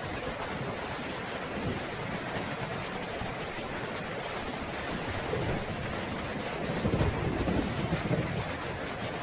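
Steady heavy rain hissing, with a low rumble of thunder swelling about five seconds in and peaking near the end.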